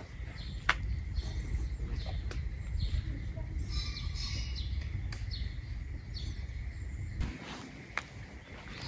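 Small birds chirping in short, repeated calls over a steady low rumble, with a few sharp clicks. The rumble drops away near the end.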